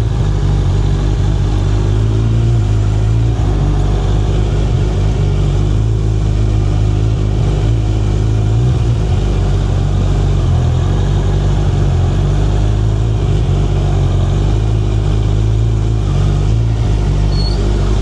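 Suzuki Hayabusa inline-four motorcycle engine running at a steady pace while riding, a low even drone with only slight changes in pitch.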